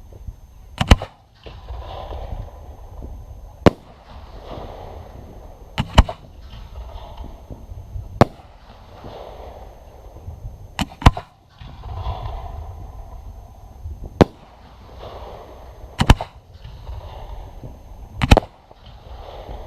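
Aerial fireworks shells bursting: about ten sharp bangs, spaced roughly two to three seconds apart, a couple of them coming as quick doubles. Each bang trails off in a softer crackling rustle.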